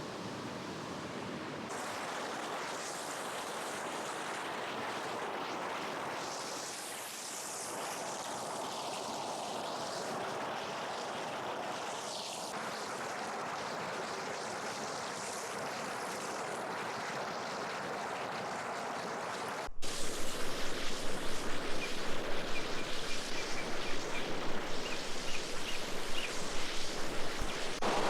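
Flowing river water, a steady rushing. About twenty seconds in, an abrupt cut brings a louder, even rhythm of soft knocks, about two or three a second, over the water.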